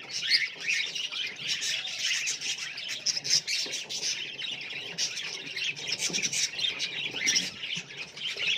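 A flock of budgerigars chirping and chattering together, many overlapping warbles and squawks.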